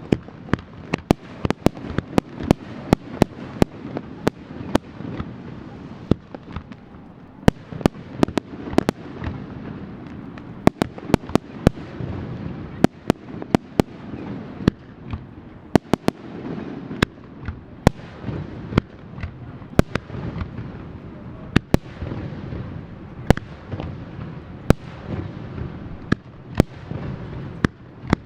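Fireworks display: a dense barrage of shell bursts, with sharp bangs coming irregularly, often several a second, over a continuous rumble of further explosions.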